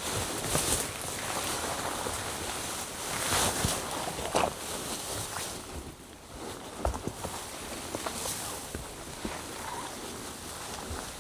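Footsteps on a forest trail, scattered soft steps, over a rushing outdoor hiss that swells a few times, most strongly in the first half.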